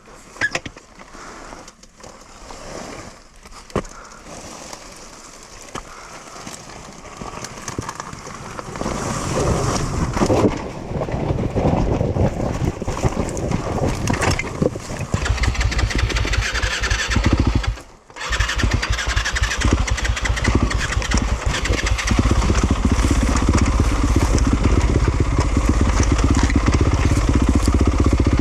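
Yamaha YZ250FX 250 cc four-stroke single-cylinder dirt bike engine. Scattered knocks and clatter at first, then the engine builds up into a loud, steady run from about a third of the way in, dropping out for a moment about two-thirds of the way through before carrying on.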